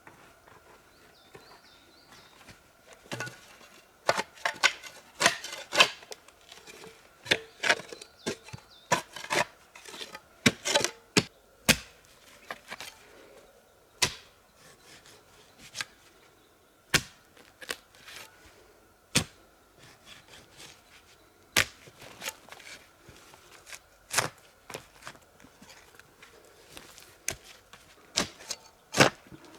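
A series of sharp, irregular knocks and cracks, some in quick clusters, others a second or two apart.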